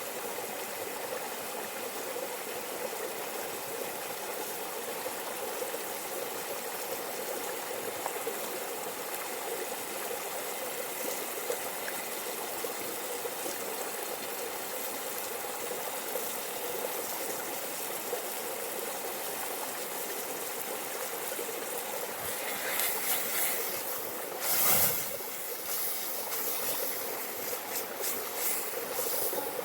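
A stream of running water, a steady rushing hiss. From about 22 seconds in come scattered sharp clicks, with one louder knock near 25 seconds.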